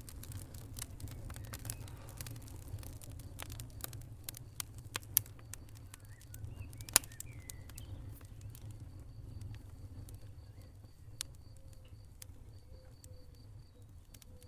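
Wood fire crackling in a fireplace, with irregular sharp pops over a steady low rumble. Two pops stand out as the loudest, around five and seven seconds in.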